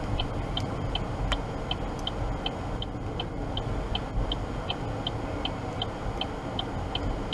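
Car's hazard-light flasher ticking evenly, about three ticks a second, over the low rumble of the car on the road.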